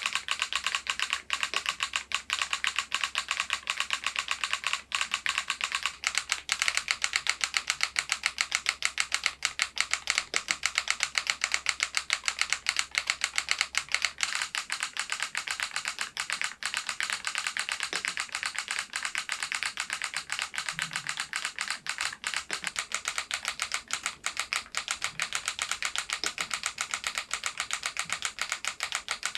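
Continuous typing on a SMURVE80 retro mechanical keyboard with its solenoid module fitted: a fast run of key clacks, each keystroke also firing the solenoid, for a typewriter-like clatter.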